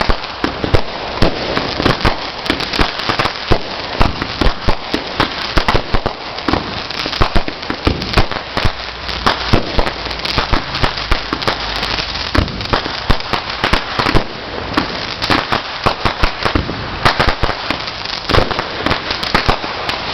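A fireworks board of firecrackers going off in a rapid, unbroken string of sharp pops, several a second.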